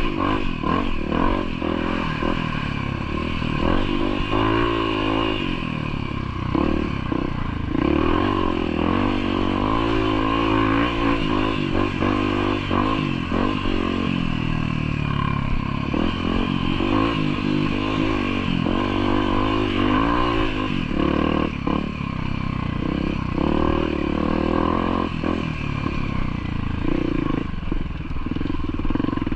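Motorcycle engine running on a rough trail, its revs rising and falling again and again, with frequent knocks and rattles over the bumps.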